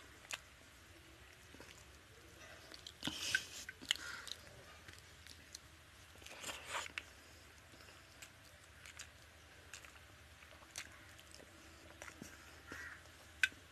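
Close-up eating sounds: a person chewing mouthfuls of rice and pomfret fish curry eaten by hand, with small wet mouth clicks throughout and two louder crackly bursts about three and six and a half seconds in.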